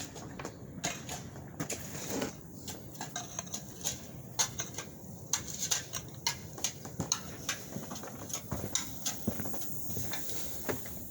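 Irregular clinks and knocks of hand demolition work on concrete, over a low steady background noise.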